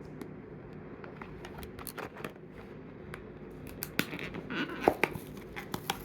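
A toy's cardboard-and-plastic blister packaging being opened by hand: scattered clicks, scrapes and crinkles, sparse at first and busier from about four seconds in.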